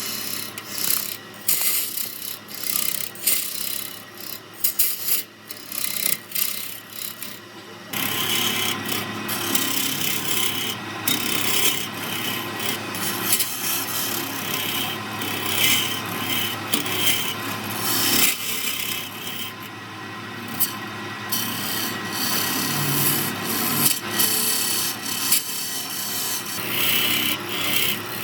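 Turning tool scraping and cutting a spinning wood-and-epoxy blank on a lathe. The cutting comes in short, broken strokes at first, then runs continuously from about eight seconds in.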